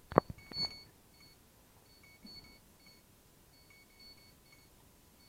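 A sharp click near the start and a softer one just after, then faint, high electronic beeping in short, irregular dashes.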